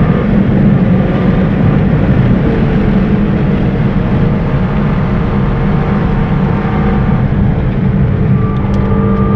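Honda Civic EK4's 1.6-litre B16 VTEC four-cylinder engine running hard under track driving, heard from inside the cabin along with road and wind rumble. Its pitch stays fairly steady, shifting slightly a couple of times as the car goes through corners.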